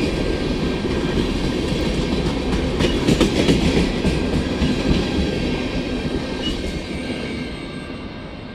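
Train rolling past, steel wheels clattering over rail joints, loudest with a run of clicks a few seconds in, then dying away near the end.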